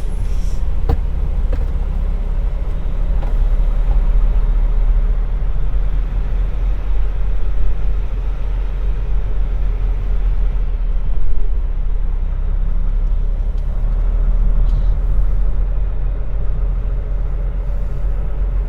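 Peterbilt semi truck's diesel engine running at low speed, a steady low rumble.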